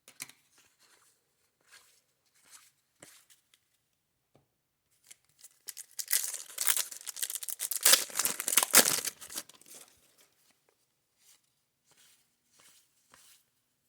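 Trading-card pack wrapper being torn open and crinkled: a loud run of tearing and crinkling lasting about four seconds, starting around five seconds in, with faint soft ticks of cards being handled before and after.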